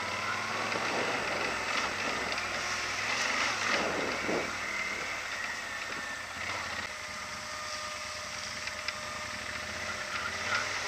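Yamaha Super Tenere XT1200's parallel-twin engine running steadily while riding a rough dirt trail, with its pitch briefly dropping and rising again about four seconds in. Wind and riding noise rush over the microphone.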